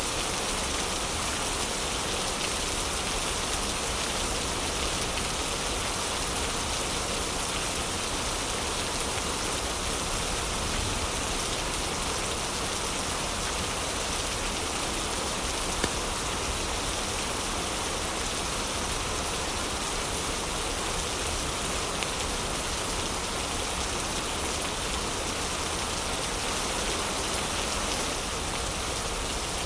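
Heavy rain falling steadily, with a few faint fireplace crackles in it; one sharper pop comes about halfway through.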